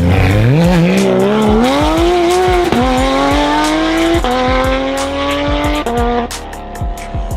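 Modified Japanese performance car's engine accelerating hard, its revs climbing and dropping sharply at each upshift: about three seconds in, again just after four seconds and near six seconds, then falling away near the end.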